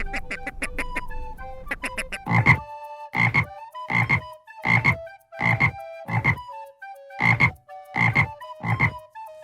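An animal's short, low call repeated nine times at even intervals, starting about two seconds in, over background music with a simple melody.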